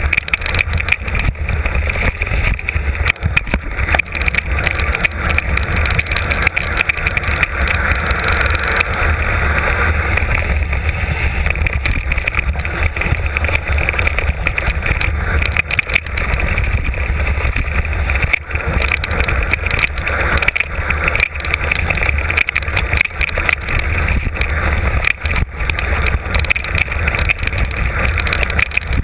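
Mountain bike descending a rough trail, heard from a camera mounted on the bike or rider: steady wind rumble on the microphone over the noise of tyres on loose ground, with frequent small rattles and knocks from the bike.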